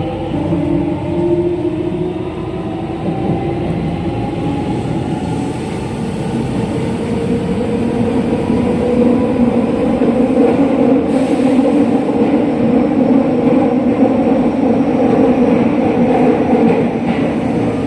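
Running sound of a JR West 207 series electric train heard on board, the set still fitted with its original traction motors: a motor whine of several steady tones over the rumble of wheels on rail. It grows louder about eight seconds in.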